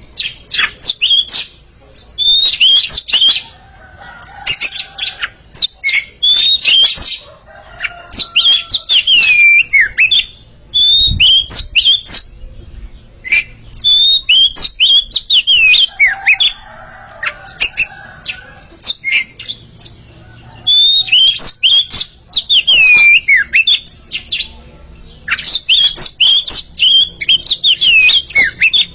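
A pair of Oriental magpie-robins singing in competition: loud, rapid phrases of sweet whistled and sliding notes, coming in bursts of one to three seconds with short pauses between. A brief low thump about eleven seconds in.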